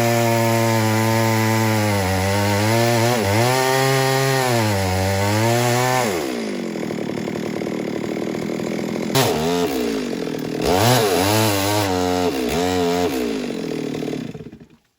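Stihl MS 382 two-stroke chainsaw at full throttle, its pitch sagging several times as the chain bites into wood. About six seconds in it drops back to idle, is blipped up about three times, then stops just before the end.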